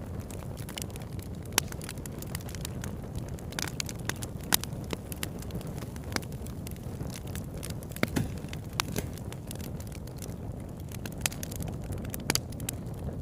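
Wood campfire burning, with a steady low rumble under frequent sharp crackles and pops. A few louder snaps are scattered through.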